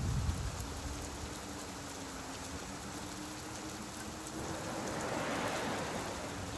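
Steady rain falling on a beach. A low rumble of thunder dies away at the start, and a wave washes in, swelling and fading, about two-thirds of the way through.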